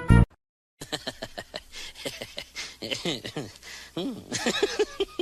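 A music jingle cuts off just after the start. After a short silence comes a run of short, rapid laughing sounds, some sliding down in pitch.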